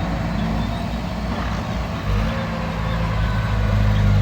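Heavy diesel engine of a bulldozer or dump truck running steadily, its note stepping up about two seconds in as it takes more throttle.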